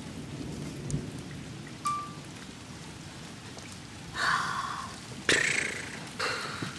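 Steady rain falling during a thunderstorm. In the second half come three short bursts of noise, the loudest starting suddenly about five seconds in and fading away.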